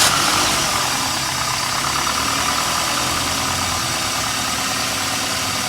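Toyota XLi petrol engine idling just after being started, a little louder in the first second and then running steadily.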